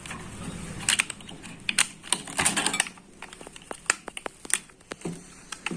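Irregular light clicks, taps and clinks of metal parts being handled as a microwave oven is taken apart and an internal plate is lifted out.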